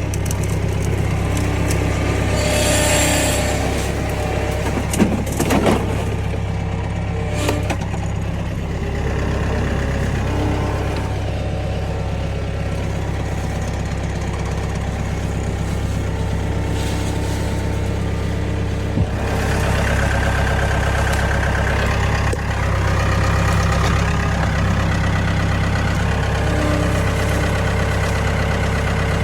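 Tractor engine running steadily at a low pace while towing a loaded trailer. A few seconds in there is a brief scraping and a few sharp knocks.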